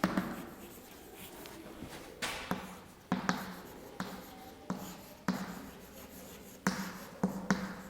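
Writing on a board: faint scratching strokes with irregular sharp taps as letters are formed and the writing tool touches down.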